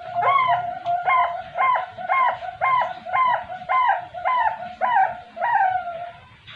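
Zebra dove (perkutut) cooing: a rapid series of about ten repeated rising-and-falling notes, roughly two a second, that stops about six seconds in.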